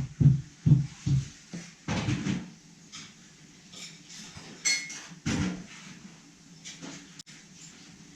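Handling noises: a quick run of dull knocks and thumps, a short scraping rustle, then scattered bumps and one brief ringing clink about halfway through.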